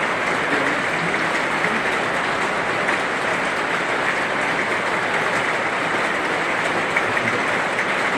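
Heavy rain falling steadily, an even, unbroken wash of drops.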